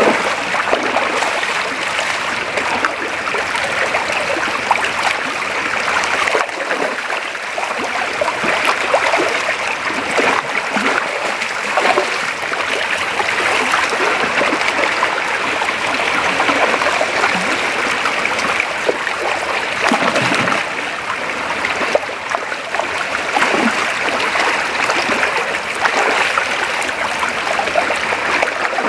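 Creek water running steadily: an even rush with many small irregular splashes.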